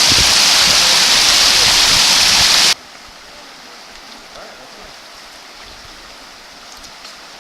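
Loud, steady rush of water cascading over rock close by. It cuts off suddenly almost three seconds in, and a much quieter steady rush of flowing water follows.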